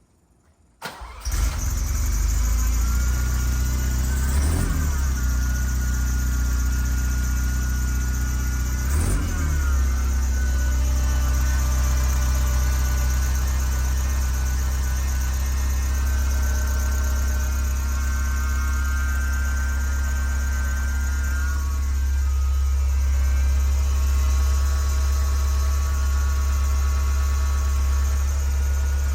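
A 1978 Ferrari 308 GTS's carbureted 2.9-litre quad-cam V8, breathing through an ANSA four-exit exhaust, starts from cold about a second in and catches at once. The revs rise and fall twice in short blips, then it settles into a steady cold idle with the choke pulled partly out.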